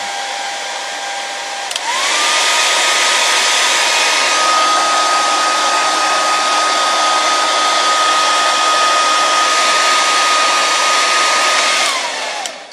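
Handheld hair dryer running: steady rushing air with a whine, switched to a higher setting about two seconds in, where the whine jumps up in pitch and it gets louder. Near the end it is switched off and winds down, the whine falling away.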